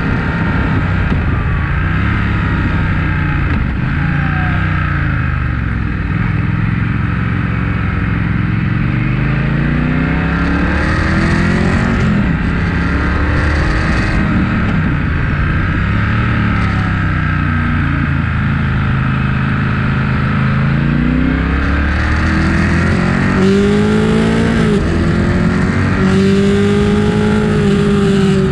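Motorcycle engine at full ride, its pitch climbing and dropping again and again as it revs out and eases off, with a steady rush of wind and road noise. The revs run highest in the last few seconds.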